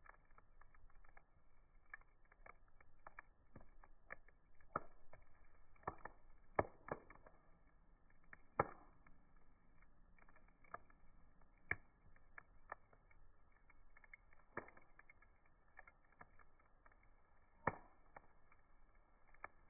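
Wood fire crackling, with irregular sharp pops over a faint hiss; the loudest pops come at about a third of the way in, near the middle and near the end. The sound is muffled, with no high end.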